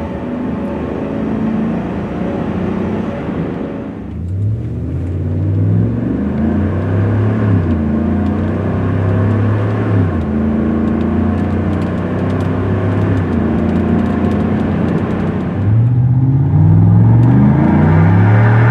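Exhaust of a Chevrolet Silverado/GMC Sierra 1500's 5.3-litre V8 through a Flowmaster FlowFX dual-mode muffler, the truck accelerating through its gears. The engine note climbs from about four seconds in, drops back at each upshift, and climbs again near the end.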